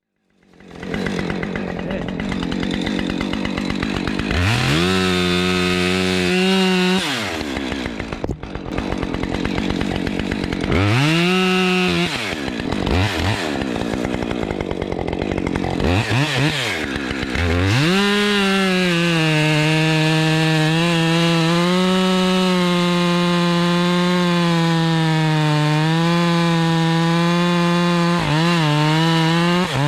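Two-stroke chainsaw running: after coming in about a second in, it is revved to full throttle and back three times. From a little past halfway it holds at full throttle, cutting into a pine, its pitch dipping slightly as the chain bites.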